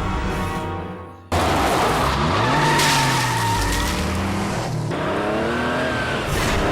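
Car sound effects as a car speeds off: the engine revs with a pitch that rises and falls, and the tyres squeal and skid. It starts suddenly about a second in, as music fades out.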